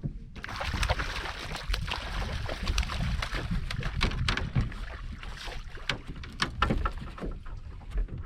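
Water splashing and sloshing against a small fishing boat, with many short sharp splashes and knocks and a low rumble.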